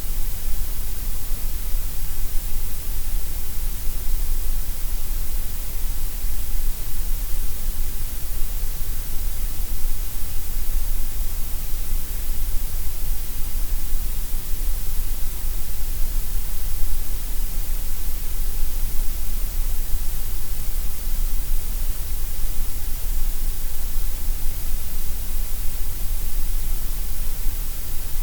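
Synthetic gray noise: a steady, unchanging hiss with no events in it, its energy heaviest in the deep bass and the highest treble and thinner in the middle range.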